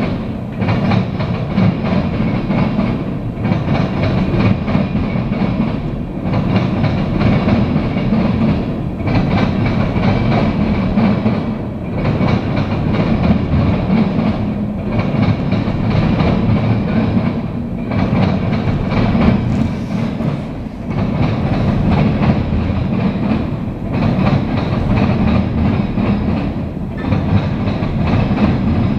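Tank cars of a CSX freight train rolling past as the train is shoved backwards, steel wheels clattering over the rail joints. The rumble dips briefly about every three seconds as each car goes by.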